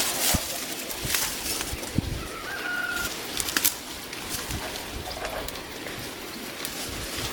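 Scattered clicks and rustling swishes outdoors, with one short whistled bird call about two and a half seconds in.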